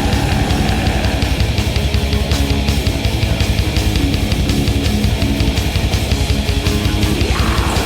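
Black metal from a demo recording: distorted electric guitars over fast, evenly pulsing drums.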